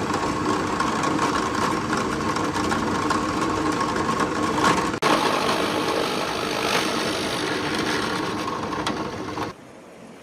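An electric motor-driven machine running steadily with a constant hum, the sound changing abruptly about halfway through and cutting off suddenly near the end.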